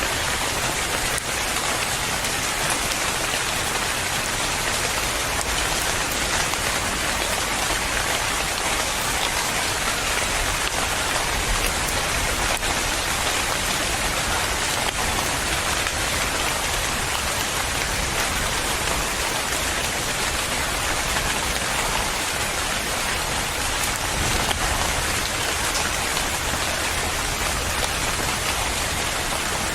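Steady, even rain falling on a surface.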